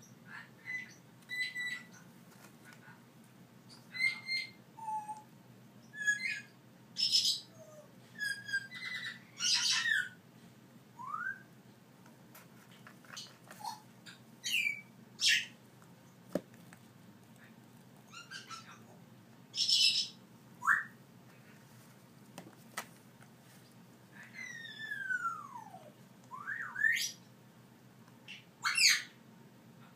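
Young African grey parrots calling: a string of short squawks, chirps and whistles every second or so, some sliding up or down in pitch, with one longer falling whistle near the end.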